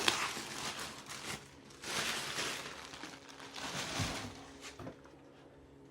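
Plastic bag rustling and crinkling in two spells, then a couple of light knocks, as a vacuum cleaner is pulled out of its packaging bag and box.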